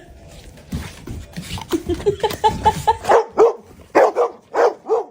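Dog barking: a quick run of short yips, then about six louder, separate barks in the last two seconds.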